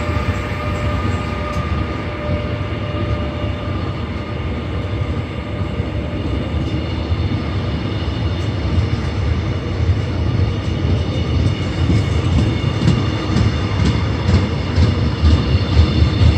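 Electric locomotive no. 8246 pulling a six-car Mugunghwa-ho passenger train away from a station, with a steady whine of several held tones over the rumble, the strange sound of this departure. In the second half it grows louder as the train gathers speed, with wheels clicking over rail joints.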